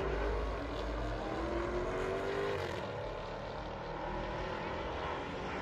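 Race car engines at a drag strip, their note climbing in pitch over the first two or three seconds, then easing.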